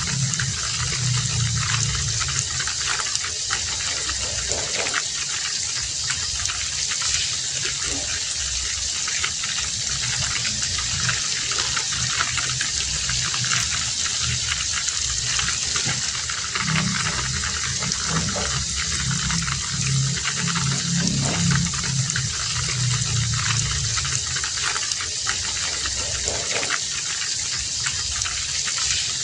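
Heavy rain falling steadily, an even hiss of downpour. A low sound swells twice, near the start and again about two-thirds of the way through.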